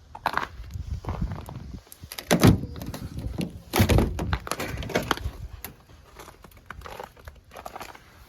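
A door being opened and shut: a run of knocks and thunks, the two loudest about a second and a half apart.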